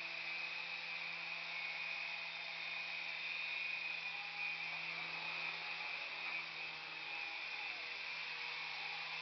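Small electric remote-control toy helicopter in flight: a steady high motor whine and rotor whir, its pitch shifting slightly as the throttle changes.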